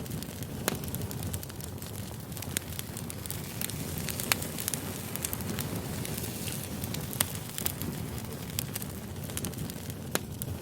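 Wood campfire burning: a steady low rush of flame with frequent sharp crackles and pops from the burning wood, the loudest pop about four seconds in.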